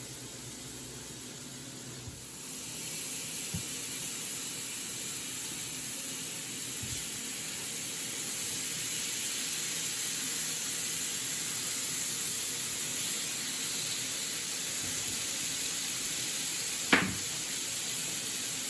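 Steak sizzling as it fries in a hot pan. The sizzle gets louder about two seconds in and then holds steady, with one sharp click near the end.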